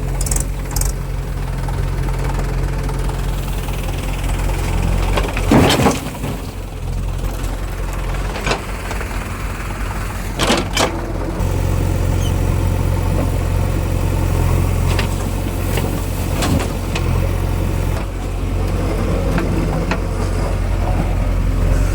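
Heavy diesel engine of a tractor or backhoe loader running steadily, its note stepping up about halfway through, with several sharp knocks at intervals.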